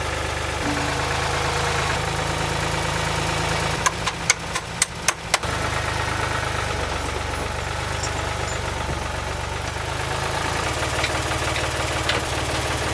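Ford tractor engine idling steadily, with a quick run of about six sharp knocks around four to five seconds in.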